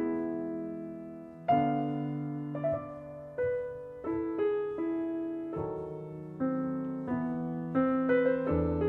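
Slow, gentle piano music: single notes and chords struck every half second to second and left to fade.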